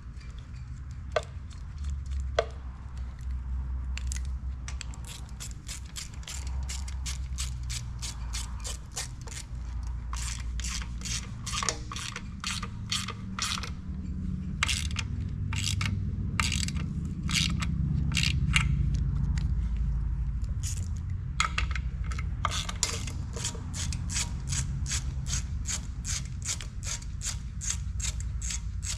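Hand ratchet wrench clicking in steady, regular strokes, about two to three clicks a second, as a fastener on the engine is worked, with a brief pause about two-thirds of the way through. A steady low hum runs underneath.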